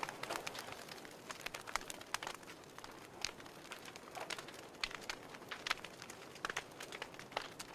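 A fire crackling: irregular sharp pops and snaps, several a second, over a soft hiss.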